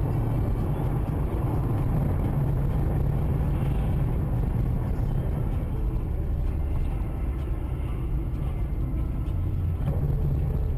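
A car driving: a steady low rumble of engine and road noise, with no sharp impact.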